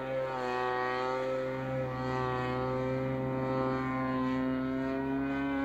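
Evolution 33 engine of a radio-controlled MXSR 3D aerobatic model plane running at a steady buzz, its pitch wavering only slightly as the throttle or distance changes.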